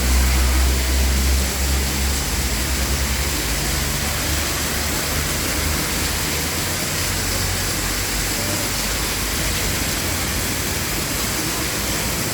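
Heavy rain pouring down in a steady, even hiss. A deep rumble sits under it for the first two seconds or so, then drops away.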